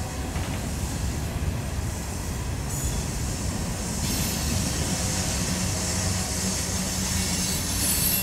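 Empty covered grain hopper cars of a freight train rolling past on the rails: a steady low rumble of wheels on track. A high hiss joins about four seconds in and grows louder near the end.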